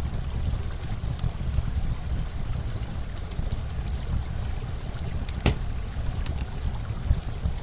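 Campfire crackling with scattered sharp pops, one louder pop about five and a half seconds in, over a steady low rush of running water.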